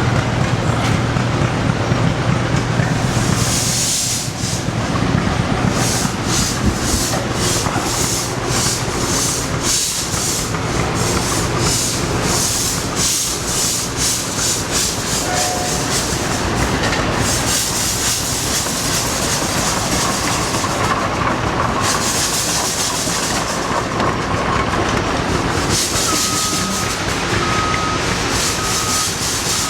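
Steam traction engine working: a run of sharp exhaust chuffs, about two to three a second, gives way to longer hisses of steam venting. Near the end a reversing beeper sounds repeatedly.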